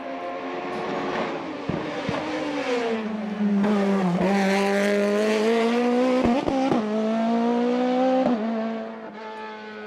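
Hill-climb racing car engine at high revs, passing close: its note climbs and falls, with several quick dips in pitch as the driver changes gear or lifts, then the sound falls away near the end.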